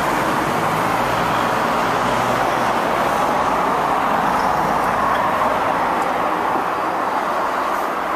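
Steady, very noisy road traffic coming in through an open door: an even hiss of passing vehicles, its low rumble easing after about three seconds.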